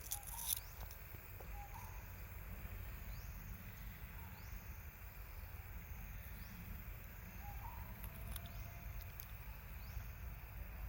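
Steady low outdoor background noise, with a few sharp clicks right at the start and faint short chirps every few seconds.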